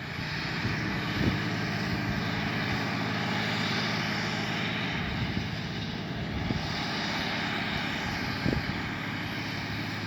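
Tractor engine running steadily under load while ploughing: a low, even drone with a wash of higher noise over it, and a couple of faint clicks, about a second in and near the end.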